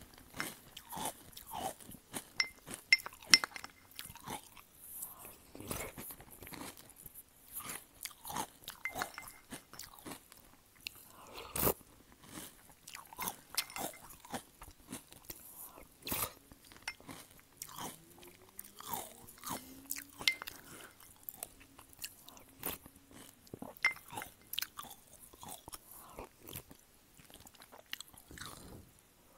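Close-miked chewing and crunching of cereal with milk, eaten by the spoonful: a steady run of irregular crackles and crunches.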